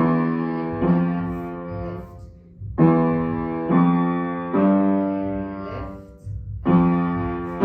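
Acoustic piano played forte in the lower-middle register. A short figure of about three struck notes is repeated, with a brief pause between repeats, and each note rings and fades.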